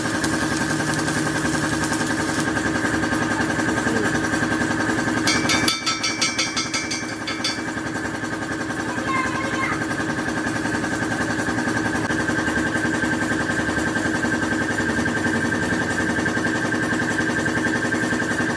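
Engine idling steadily, with a short rapid rattle of high clicks about five seconds in, after which the idle settles slightly lower.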